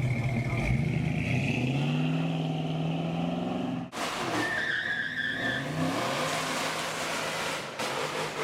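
Car engine revving, its pitch rising as it pulls away. After a sudden break about four seconds in, tyres squeal for about a second over the sound of engines.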